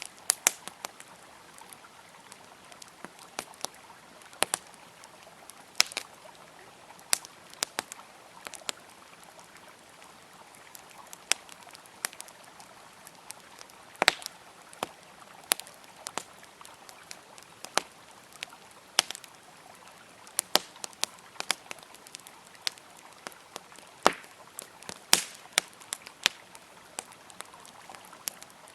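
Wood campfire crackling, with sharp irregular pops and snaps several times a second, over the steady rush of a flowing river.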